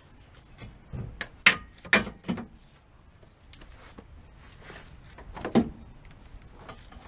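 A few sharp knocks and clanks: a quick run of four or five between about one and two and a half seconds in, then one more about five and a half seconds in.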